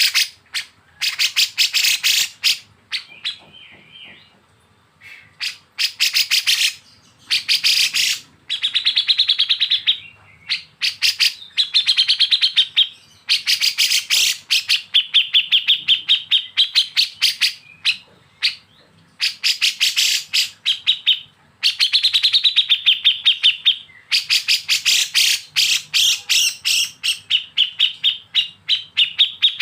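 Kapas tembak and cucak jenggot bulbuls singing 'besetan': bouts of very fast, rattling trains of high notes lasting a few seconds each, several ending in a held whistled tone, with short gaps between bouts.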